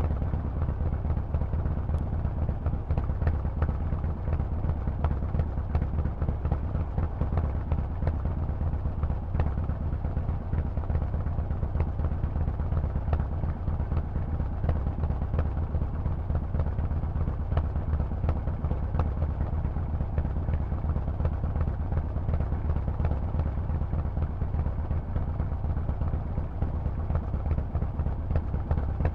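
Harley-Davidson Forty-Eight's 1200 cc air-cooled V-twin running steadily through a Vance & Hines exhaust: a low, even rumble with no clear revving.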